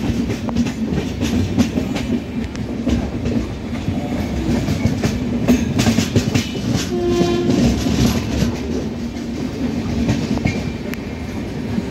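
Passenger train running on the rails, heard from aboard: a steady loud rumble with the repeated clickety-clack of wheels over rail joints. About seven seconds in a horn sounds for roughly a second.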